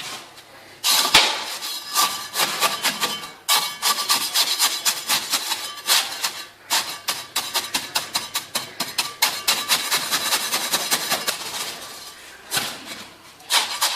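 Hand-tool work: rapid, rhythmic scraping strokes, several a second, starting about a second in and stopping near the end.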